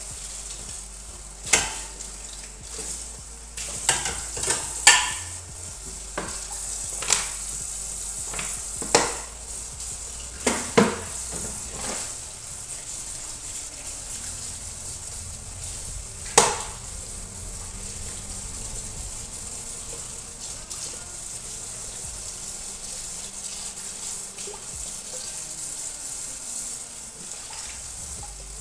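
Kitchenware being handled: about ten sharp clacks and clinks of dishes and utensils, mostly in the first half, over a steady high hiss that continues after the clatter stops.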